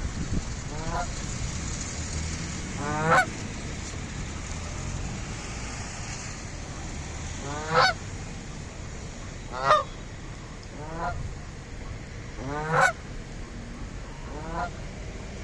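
Canada geese honking: about seven separate short honks at irregular intervals, each sweeping upward in pitch.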